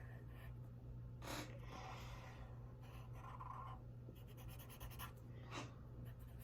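Faint scratching of a drawing tool on paper, in short strokes, with a quick back-and-forth scribble a little past the middle.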